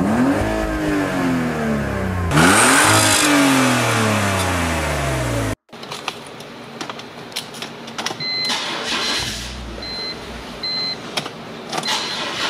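BMW E46's M54 straight-six engine being revved twice, its pitch climbing and then sinking slowly each time, until it cuts off suddenly. After that come small clicks of the ignition key and a repeating electronic warning chime from the dashboard.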